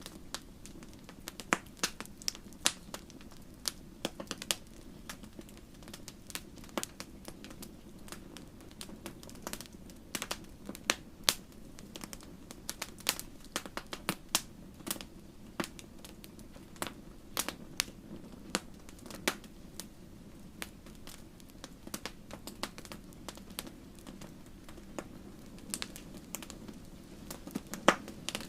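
Wood fire crackling in a fireplace: irregular sharp pops and snaps, several a second, over a steady low rush of flame.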